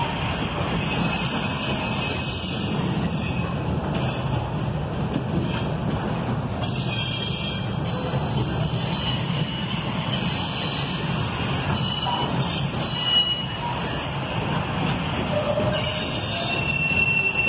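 Double-stack intermodal well cars of a freight train rolling past, with a steady rumble of steel wheels on rail. A few short, high wheel squeals come in during the second half.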